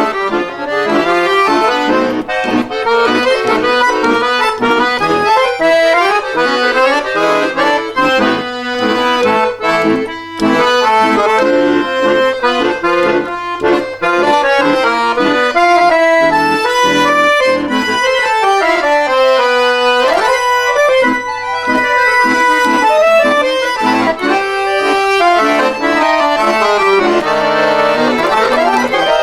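Bayan (Russian button accordion) playing a fast folk-style instrumental tune with quick runs of notes, including a long falling run about two-thirds of the way through.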